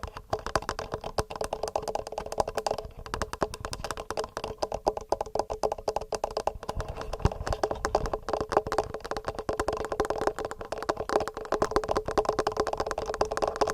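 Fingernails tapping fast on a TASCAM recorder's built-in microphones: a dense, quick run of clicks with many taps each second.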